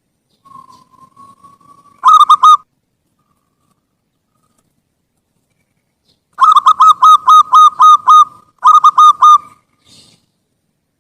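Zebra dove (perkutut) singing its cooing song: a faint drawn-out note, then a quick burst of clear coos about two seconds in, and after a pause a longer run of about eight rapid coos followed by a shorter run of about four.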